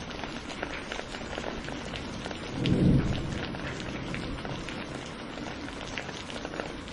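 Steady rain falling, with many individual drops ticking, and a brief low rumble of thunder swelling and fading about two and a half seconds in.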